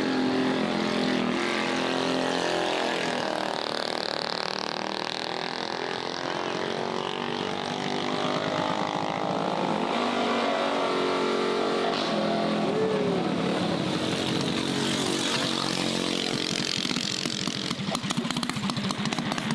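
Mini bike engines running in the pits, their pitch rising and falling as they are revved.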